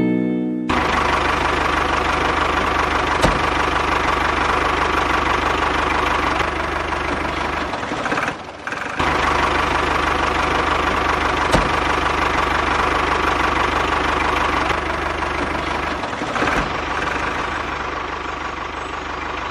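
Small engine of a mini machine running steadily, with two brief breaks.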